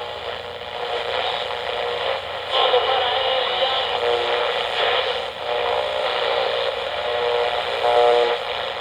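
Old, muffled radio transcription audio with a narrow, tinny sound: several sustained tones held together over a steady hiss, shifting a few times.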